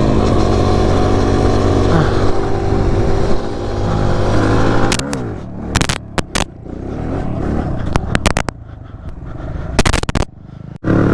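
Dirt bike engine running under the rider at a steady pitch, then easing off after about three and a half seconds. Several sharp noises cut across it in the second half.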